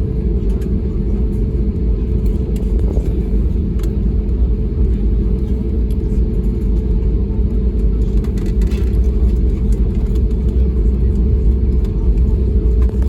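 Steady low rumble of an Airbus A320neo taxiing, heard inside the passenger cabin: the engines running and the aircraft rolling along the taxiway.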